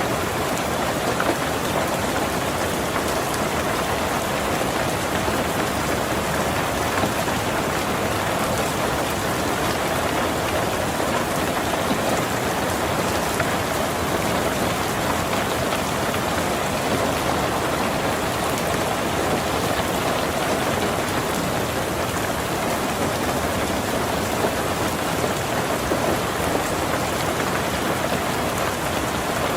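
Heavy rain drumming steadily on a tin roof, a dense, even patter of countless drops.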